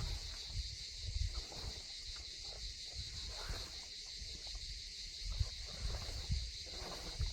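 Steady high-pitched insect chorus of summer crickets or cicadas, with an irregular low rumble underneath.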